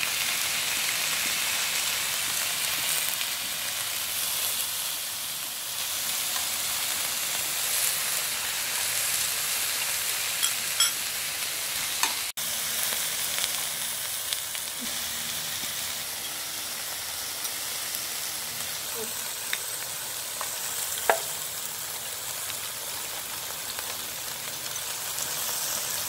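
Beef and vegetables sizzling steadily on a hot tabletop barbecue pan, with a few sharp clicks as they are turned with chopsticks.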